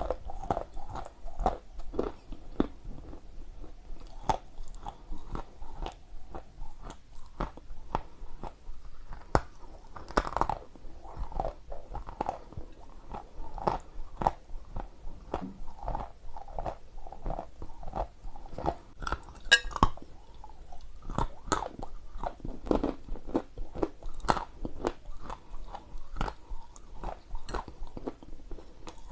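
Close-miked biting and chewing of dry chunks of Ural edible clay: a dense, uneven run of crisp crunches, several a second, with a couple of louder cracks along the way.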